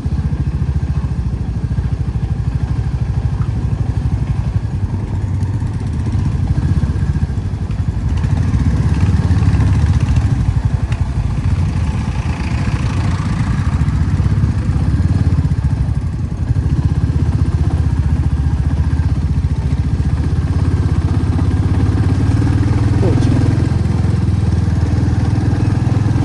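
Motorcycle engine running steadily while riding, a low, rapid pulsing throb.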